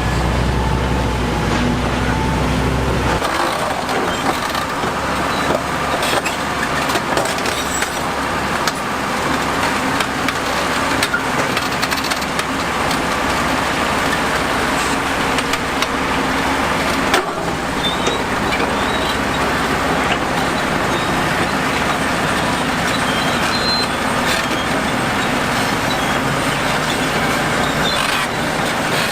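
Heavy construction machinery running, with a steady low engine hum that drops away about three seconds in, followed by continuous crunching and cracking with many sharp clicks.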